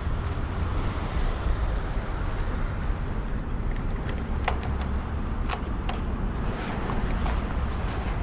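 2018 Kawasaki Z900's inline-four engine running steadily through a Yoshimura muffler on Delkevic headers with no dB killer, with a few short ticks about halfway through.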